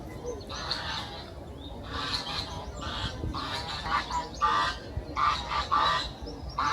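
Birds calling: a run of short, repeated calls that come closer together and louder from about four seconds in.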